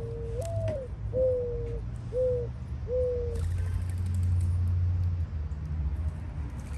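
A bird hooting: one long note that steps up, then four shorter hoots, each falling slightly, over about three and a half seconds. A low rumble follows near the end.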